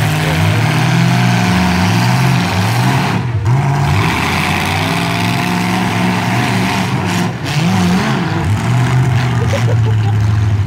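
Demolition-derby truck engines revving hard, their pitch rising and falling again and again as the trucks accelerate and back off.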